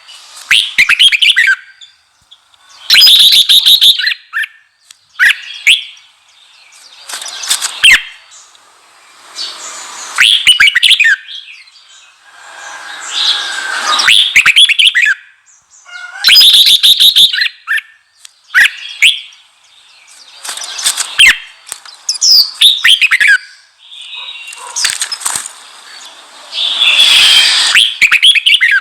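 Red-whiskered bulbul singing loudly in a heated, provoking style: a string of short, fast warbled phrases of rising and falling chirps, each a second or two long, with brief pauses between them.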